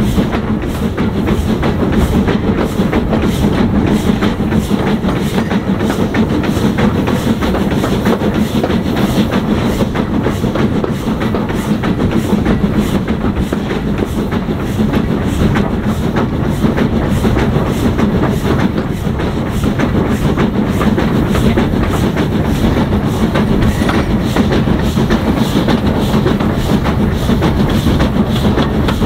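A steam-hauled train running steadily on the rails, a dense, even running noise with a quick regular beat.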